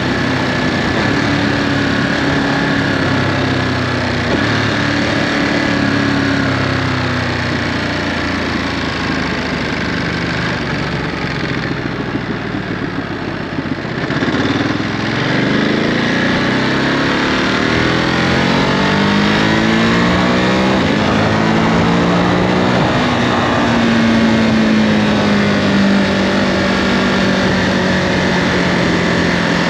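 Ducati Monster 937's 937 cc Testastretta V-twin running through its stock Euro5 exhaust on the move. The revs fall away slowly, dip about halfway, then climb steadily as the bike accelerates, before settling into a steady cruise near the end.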